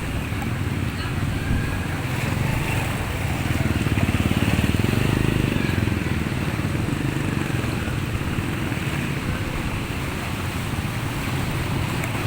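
A small vehicle engine running steadily as it moves through floodwater, with water churning and sloshing around it.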